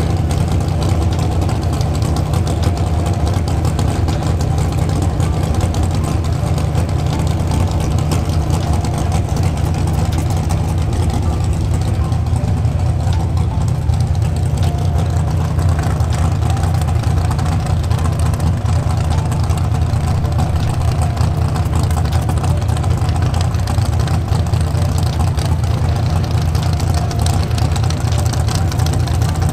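Car engine idling with a low, steady rumble, and no revving or launch.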